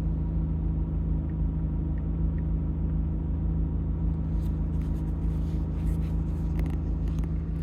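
Car engine idling steadily with an even low drone that holds one pitch, with a few faint clicks in the second half.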